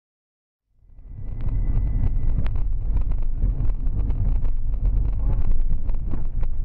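A car on the move: a steady low road rumble with wind buffeting the microphone, starting abruptly about a second in.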